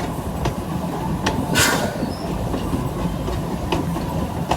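Amusement-park steam train rolling along its track, heard from aboard: a steady rumble with scattered clicks from the wheels and rail joints and a short hiss about a second and a half in.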